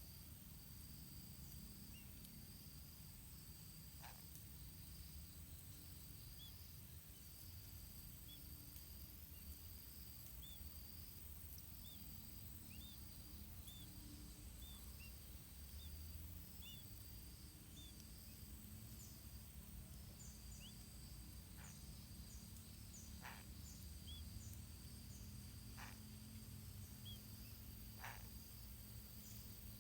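Faint outdoor ambience: a steady high-pitched insect drone, with a run of faint short chirps for several seconds in the middle and a few brief calls later on, over a low rumble.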